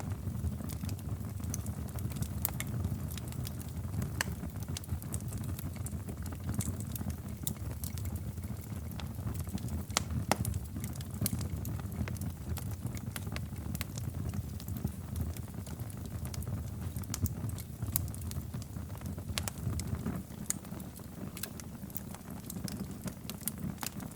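Wood fire crackling in a fireplace: a steady low rumble of the flames with irregular sharp pops and snaps, one louder pop about ten seconds in.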